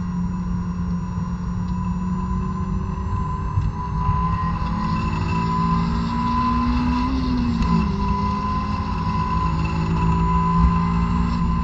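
2006 Honda S2000's 2.2-litre four-cylinder engine at full throttle, heard from inside the cabin, revving up steadily through a gear. Its pitch drops at an upshift about eight seconds in, then starts climbing again.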